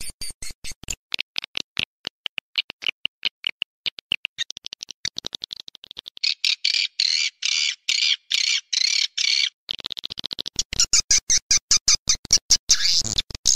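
Swiftlet lure-call recording: a fast train of short, high edible-nest swiftlet chirps and clicks, several a second, turning into longer, louder twittering about halfway through. It is played back to draw swiftlets into a nest house.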